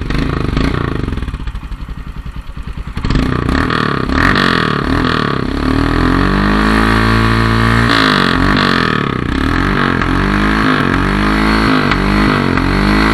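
Royal Enfield Himalayan's 411 cc single-cylinder engine running through a Red Rooster aftermarket exhaust with its dB killer still fitted. It idles with a fast, even beat for the first few seconds, is then revved, held up once for a couple of seconds, and finally blipped repeatedly with quick rises and falls in pitch.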